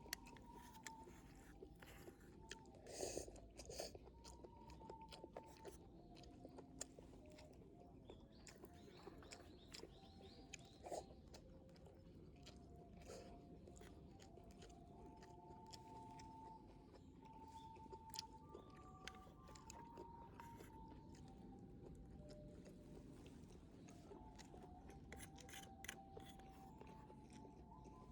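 Close, quiet chewing and crunching of food, with scattered clicks of biting, loudest about three seconds in and again near eleven seconds. Under it runs faint background music of slow held notes, which the uploader gives as an alto recorder ensemble.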